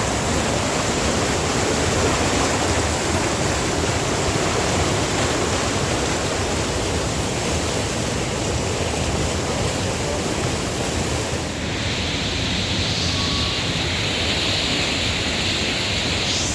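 Waterfall rushing steadily, a continuous loud wash of water noise. About twelve seconds in, a brighter hiss rises above it for the last few seconds.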